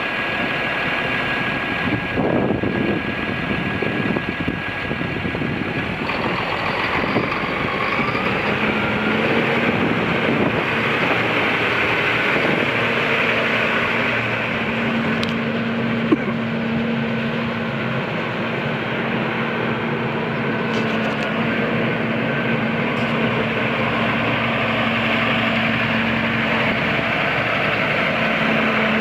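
Challenger MT675D tractor's diesel engine running steadily.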